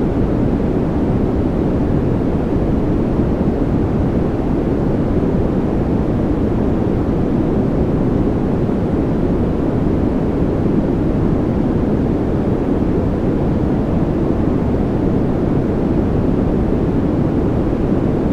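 Steady white noise track for sleep: an even, unbroken rush with most of its weight in the low end, so it sounds deep rather than hissy.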